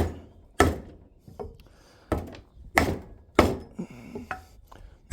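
Hammer blows driving a new interference-fit part into its bore: about six heavy, irregularly spaced strikes with a few lighter taps between, each a sharp knock with a short ring.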